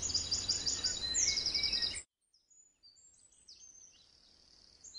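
Birds chirping in rapid runs of high notes over steady outdoor background noise. About two seconds in, the ambience cuts off abruptly, leaving only faint chirps.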